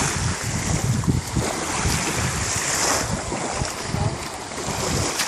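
Wind buffeting the microphone on a moving jet ski, over rushing water and spray. It comes in gusts, with no clear engine note standing out.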